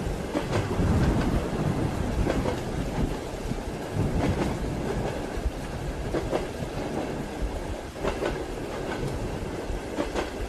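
Train wheels clicking over rail joints about once a second, unevenly spaced, over a steady rumble of the moving carriage, heard from inside a railway carriage.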